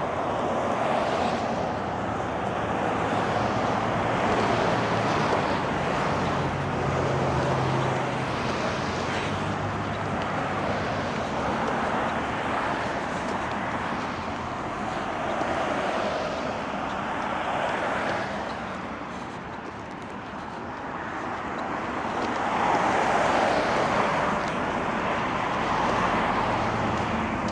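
Road traffic: cars passing one after another, tyre and engine noise swelling and fading as each goes by, with a low engine hum early on and a brief lull about two-thirds of the way through.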